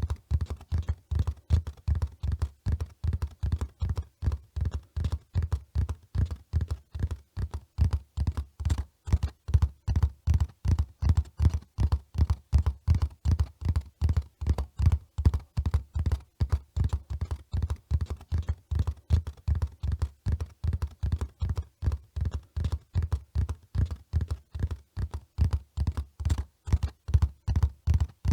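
Horse hoofbeats at a steady run, about three or four low thuds a second in an even rhythm.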